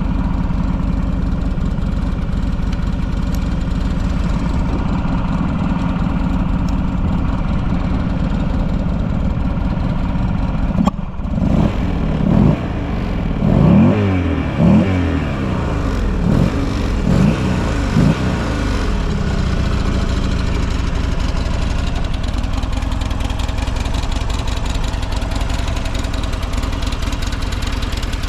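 Buell XB12SS Lightning's 1203 cc air-cooled V-twin idling steadily. From about 11 to 19 seconds in, the throttle is blipped about six times, each rev rising and falling back to idle. The seller advertises the engine as quiet and free of abnormal noises.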